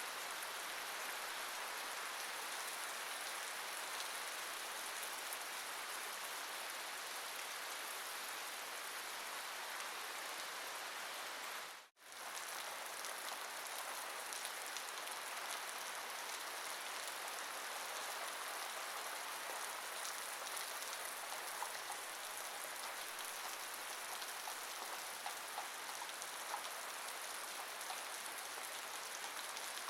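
Steady rain falling, with a few louder individual drop ticks in the second half. The sound cuts out for a split second about twelve seconds in, then resumes.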